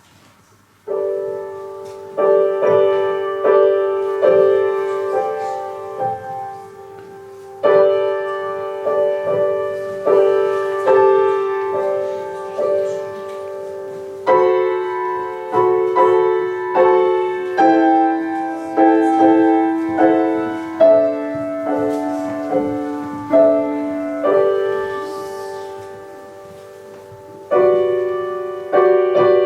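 Piano playing a melodic piece, starting about a second in, in phrases of struck notes that swell and fade with short soft stretches between them.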